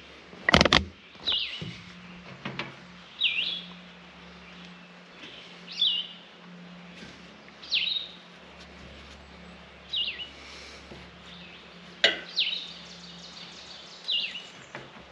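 A bird calling over and over, a short sweeping chirp about every two seconds. A few sharp knocks cut in, the loudest about half a second in and another near twelve seconds.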